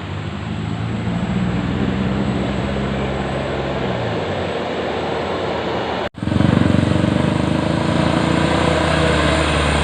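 Dump truck engine running steadily; the sound breaks off abruptly about six seconds in and comes straight back louder.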